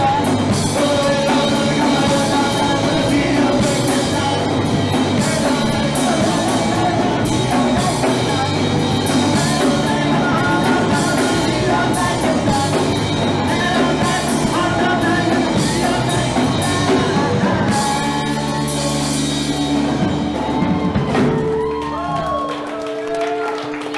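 Live rock band playing loud with drums and singing; about 18 seconds in the drum hits stop and held chords ring out, and near the end the lowest notes drop away as the song winds down.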